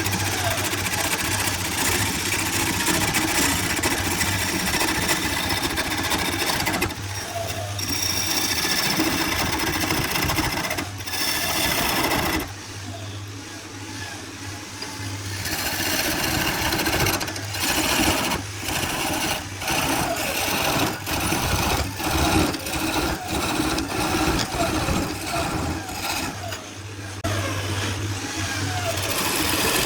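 Woodworking power tools running and cutting into wood: a motor hum that comes and goes, with rough cutting noise and many sharp knocks. It dips quieter for a few seconds about halfway through.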